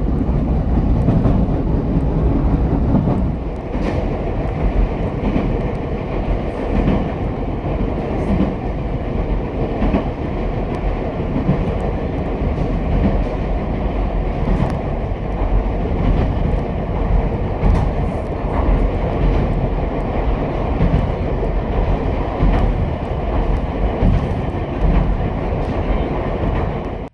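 Ichibata Electric Railway 7000 series electric railcar running, heard from inside the car: a steady rolling rumble with the clicks of the wheels over the rail joints. The sound cuts off abruptly at the end.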